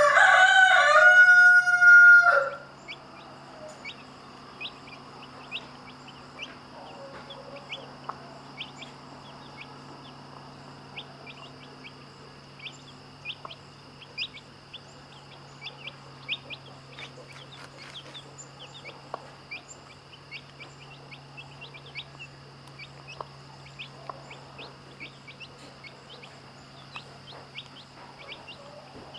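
A rooster crows once, loud and drawn out, right at the start. After that, chicks keep peeping with short high cheeps, and there are a few soft, low clucks from the hen.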